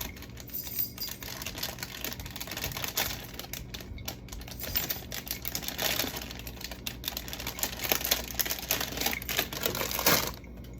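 Rapid clicks and clatters of jars, bottles and plastic food containers being handled and shifted about in a refrigerator as it is cleared out.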